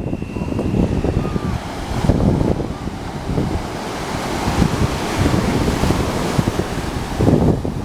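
Wind buffeting the microphone in gusts over the wash of ocean surf, with a faint thin high tone during the first second or so.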